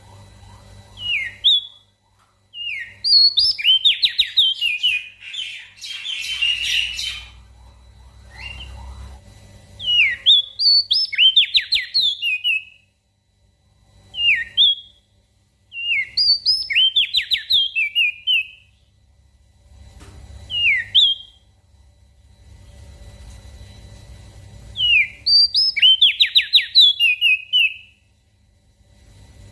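Opior jambul (crested darkeye) singing in loud short phrases of quick, falling whistled notes, with pauses of one to a few seconds between them. About six seconds in comes one harsher, buzzy burst. A low hum runs underneath.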